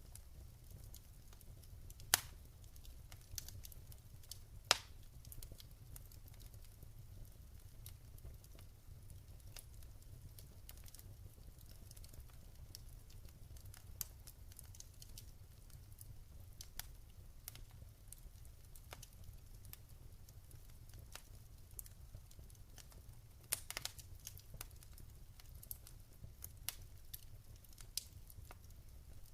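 Wood fire in a fireplace crackling, with scattered sharp pops over a low steady rumble; the two loudest pops come about two and five seconds in, and a quick cluster of pops comes near the end.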